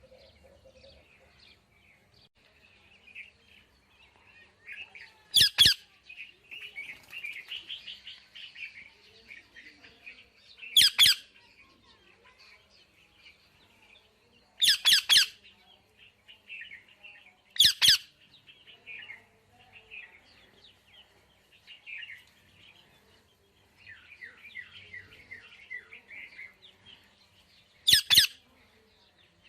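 Parrot calling: five loud, short screeches spaced several seconds apart, with softer chattering chirps in between.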